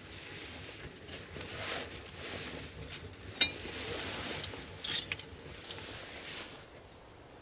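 Rustling and handling of camp gear, with one sharp metallic clink about three and a half seconds in and a few lighter clicks near five seconds.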